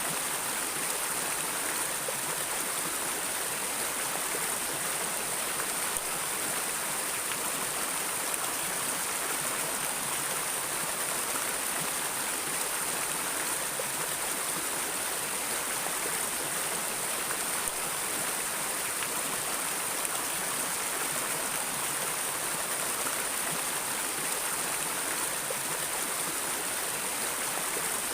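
Stream water flowing and splashing steadily over stones, a continuous rushing hiss with no breaks.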